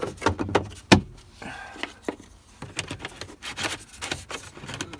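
Lid of a Chinese diesel heater being put back on: a string of clicks and knocks, the loudest about a second in, with scattered quieter knocks after.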